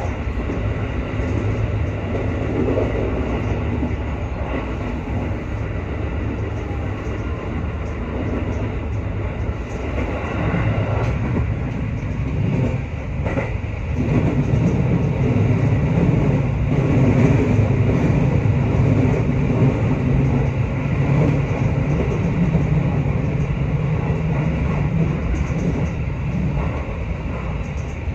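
JR West 221-series electric train running at speed, with steady wheel-on-rail running noise heard from inside the car. The noise grows a little louder and deeper about halfway through.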